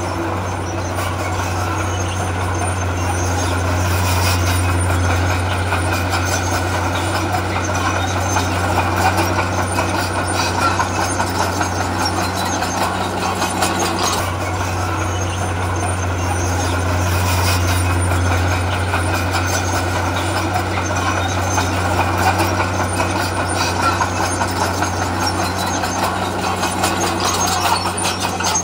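Heavy diesel earthmoving machinery running continuously: a deep, steady engine drone under a dense mechanical hiss and rumble, swelling and easing slightly a couple of times.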